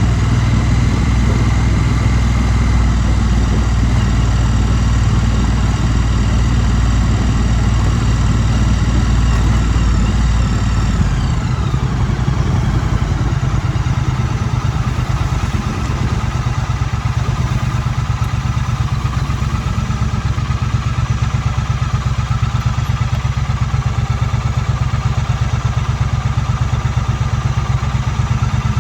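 2016 Triumph Street Twin's 900 cc parallel-twin engine running steadily. About ten seconds in its note falls, then it runs on at a lower, steady pulse.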